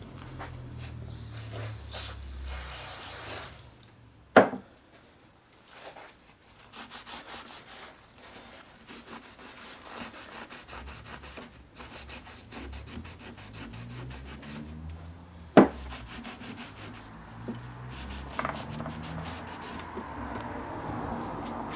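Metal lathe parts being scrubbed by hand to remove rust, with quick back-and-forth rubbing strokes. Twice there is a sharp knock, once about four seconds in and again past the middle.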